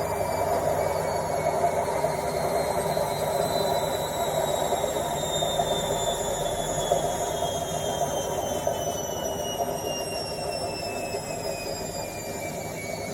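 Washing machine in its spin cycle: a steady rushing drum noise with a high motor whine that falls slowly in pitch and gets gradually quieter as the drum slows down.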